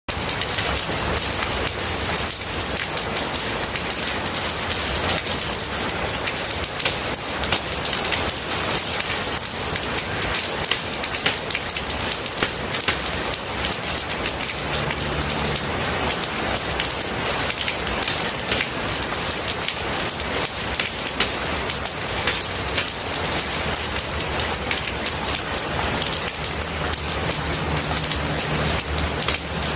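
Steady rain falling, a dense patter of countless drops hitting surfaces, with no let-up.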